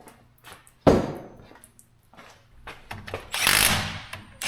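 A metal clunk about a second in, then a power tool running a differential cover bolt down on a GM AAM 11.5 rear axle, loud for about a second near the end.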